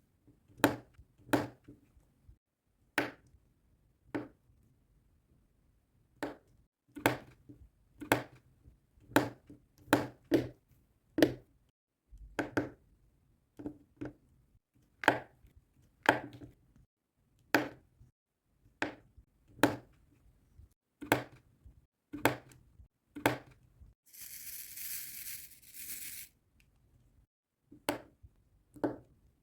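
Diamond-painting work: sharp, light taps, roughly one or two a second at uneven spacing, as resin drills are pressed onto the sticky canvas. A short hissing rustle lasts about two seconds, a little past the middle.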